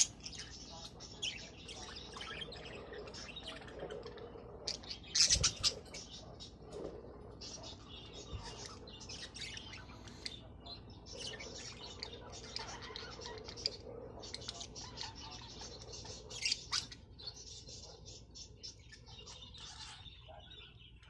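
Budgerigars chattering and warbling: a continuous stream of quick high chirps, with a louder, sharp burst about five seconds in.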